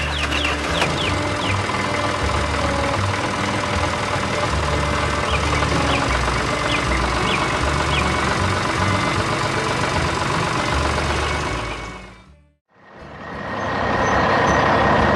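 Cartoon vehicle engine sound effects running over background music, fading out about twelve seconds in. After a brief silence, a steady truck engine sound starts.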